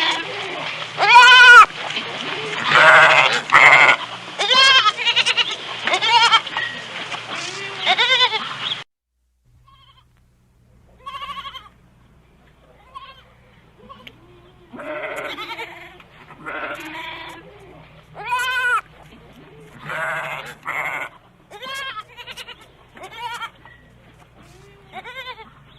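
Goats bleating, many wavering calls one after another. The sound cuts off abruptly about nine seconds in, and quieter bleats follow a couple of seconds later.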